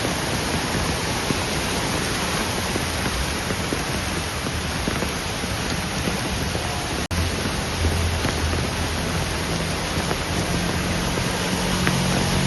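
Steady hiss of heavy rain falling. It breaks off for an instant about seven seconds in, and near the end a low engine hum joins it.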